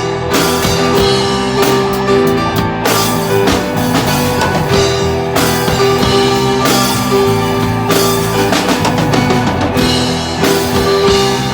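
Rock music with a drum kit and guitar playing an instrumental passage, with steady drum beats under held notes.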